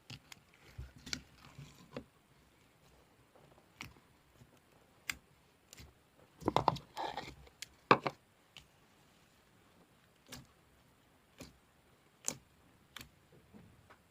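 Slime being handled by hand: scattered small clicks and pops, with a louder run of squishing and popping about six to eight seconds in.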